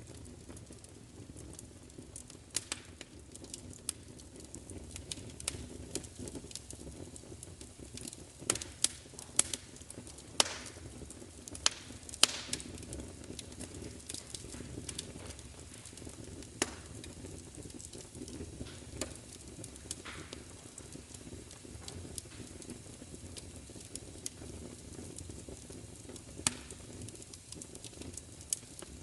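Wood fire crackling: irregular sharp pops and snaps over a low, steady rumble of burning, with a cluster of louder pops about nine to twelve seconds in.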